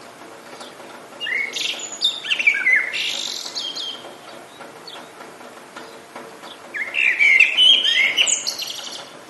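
A songbird sings two loud, quick warbling phrases, one about a second in and another about seven seconds in. Between them a faint steady hiss of rain carries on.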